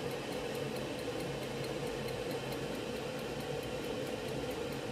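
WMF Kitchen Minis electric kettle heating a full litre of water: a steady rushing noise as the water works toward the boil.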